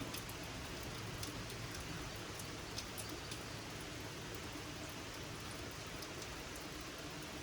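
Gentle summer rain falling steadily, a continuous hiss with scattered individual drops ticking close by.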